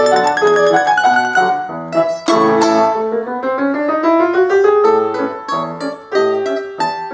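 Instrumental music: a lively tune in quick, sharply struck notes with a piano prominent, climbing in a fast upward run of notes about three seconds in.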